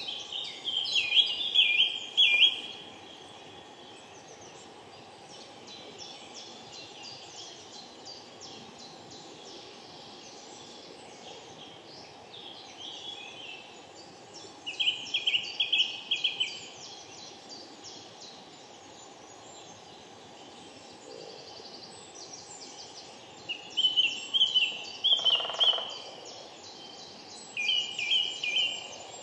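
Lesser spotted woodpecker calling, a rapid run of short, even, high piping notes (kee-kee-kee), heard four times, each run lasting about two seconds. Other small birds keep up a faint chirping throughout.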